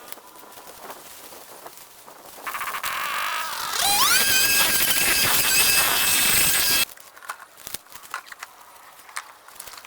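A power tool's motor spinning up: a buzz that rises into a high steady whine, which cuts off abruptly a few seconds later, with light clicks and handling sounds before and after.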